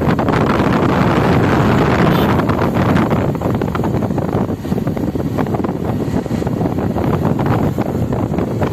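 Wind rushing over the microphone on a moving motorcycle, a loud steady roar of wind and road noise.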